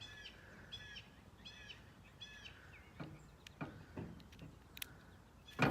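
A bird chirping a short call over and over, about once every second, for the first couple of seconds. Then come a few faint clicks of handling and a sharper knock near the end.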